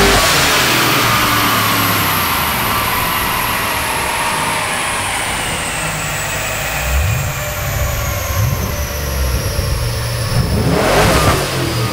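Twin-turbocharged Holden VE SS-V wagon's V8 engine driving on the road: the hard pull ends abruptly as the throttle is lifted, and a high turbo whistle falls slowly in pitch over the lower engine running. A couple of short rev rises come later, and a brief louder rush near the end.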